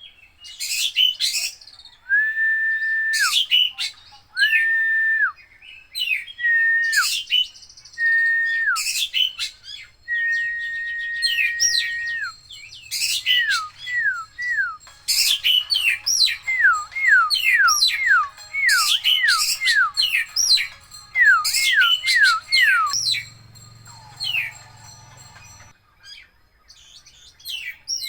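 Oriental magpie-robin (kacer) singing a varied song full of imitated phrases. It opens with long level whistles that each drop at the end, mixed with sharp high notes. From about halfway it switches to fast runs of downward-sliding whistles, with a brief lull near the end before it resumes.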